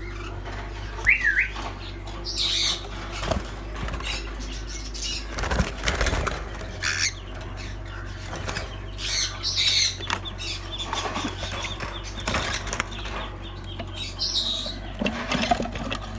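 Caged parrots fluttering their wings in an aviary, with a brief chirp about a second in and several short squawks scattered through, over a steady low hum.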